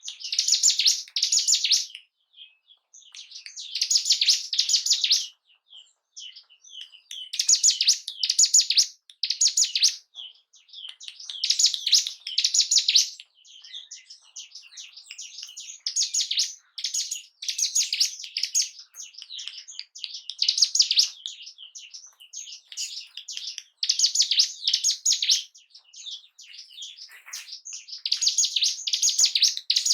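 Ciblek gunung, a prinia, singing: high-pitched phrases of rapid repeated notes, each a second or two long, coming about every four seconds with short pauses between.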